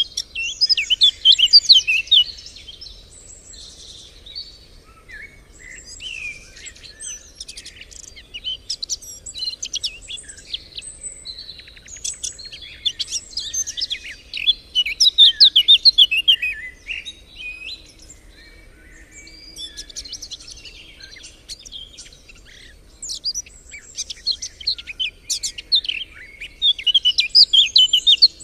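Songbirds singing, several voices overlapping, with a loud rapid phrase of song bursting out near the start, again in the middle and again near the end.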